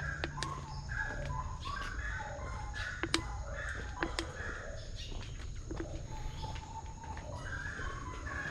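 Birds calling over and over in short chirping notes, with a few sharp clicks in between.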